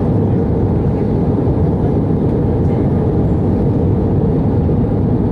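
Steady, loud low roar of cabin noise inside an Airbus A319 airliner on its descent: engine and airflow noise, with no changes.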